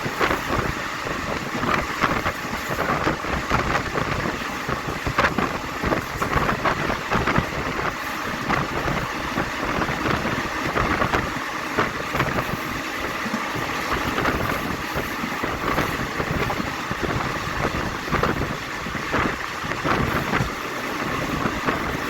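Passenger train running on the line, heard from inside the carriage. Wheels keep up a continuous rumble on the rails, with frequent irregular clicks and rattles.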